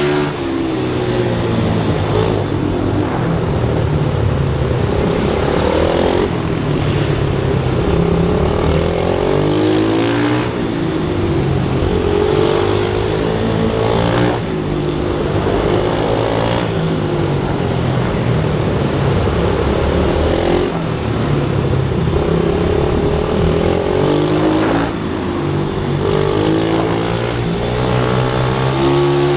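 Small single-cylinder pit bike engine running hard, its pitch rising and dropping again and again as it accelerates and shifts through the gears.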